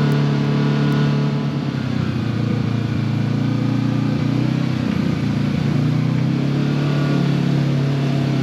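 Side-by-side UTV engine running steadily while riding the trail, with a brief wavering in engine note about halfway through.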